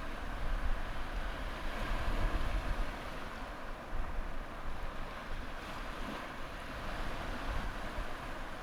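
Sea waves and surf washing steadily, with a deep rumble underneath.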